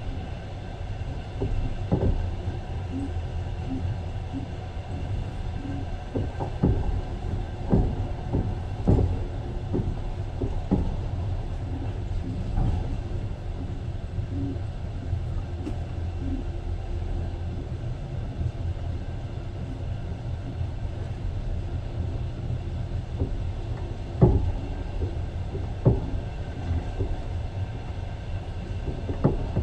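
Passenger train running, heard from inside the carriage: a steady low rumble with irregular clacks and knocks of the wheels over the rail joints. The knocks come in clusters, busiest between about six and eleven seconds in and again around twenty-five seconds.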